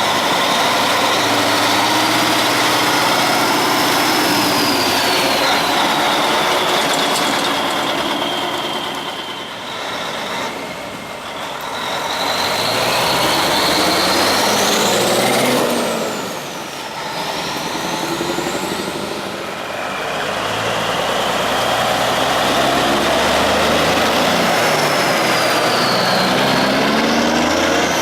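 Diesel semi trucks driving past one after another, engines pulling up through the gears with high whines that rise and fall as each one goes by.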